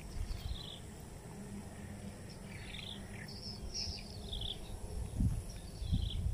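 Birds giving short chirps over and over, over a faint steady high insect drone and a low rumble on the microphone, with a couple of soft knocks near the end.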